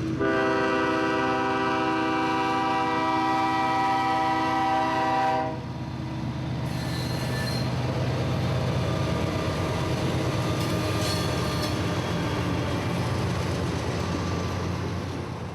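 Freight train's locomotive horn blowing one long chord blast for about five seconds, then the train's engines rumbling past with its wheels running on the rails.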